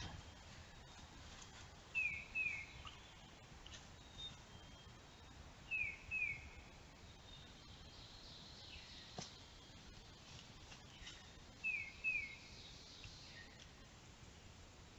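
Dawn birdsong: one bird repeats a call of two quick falling notes three times, about every four seconds, with fainter higher chirps from other birds over a steady faint hiss. A single click sounds about nine seconds in.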